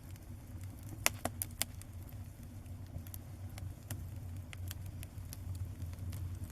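Bonfire of burning paper crackling, with irregular sharp pops, a quick cluster of them about a second in, over a steady low rumble.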